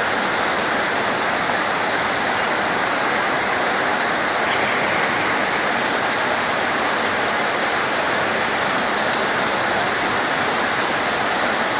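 Heavy, torrential rain pouring steadily: a dense, even hiss of water with no letup.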